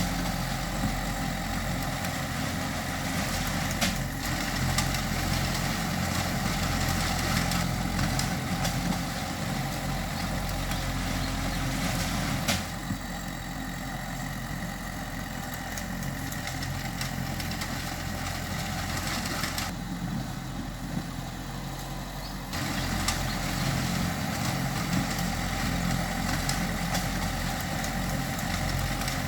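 Diesel engine of heavy earthmoving machinery running steadily. About twelve seconds in, the sound drops abruptly to a quieter, duller engine note, then returns just as abruptly some ten seconds later.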